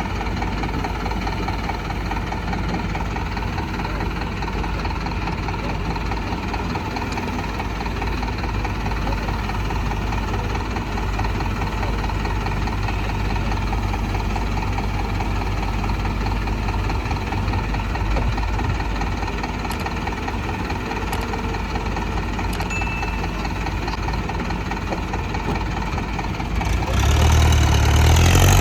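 Diesel engine of heavy machinery running steadily at idle, its pitch and level rising briefly near the end as it is revved.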